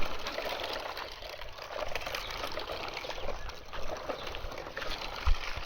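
Water trickling and pouring, a steady noise with small scattered clicks.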